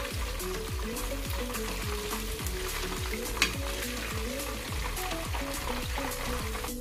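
Pieces of salted fish (makayabu) frying in a pan of hot oil, a steady crackling sizzle as they are turned with a fork. Background music with a steady beat runs underneath.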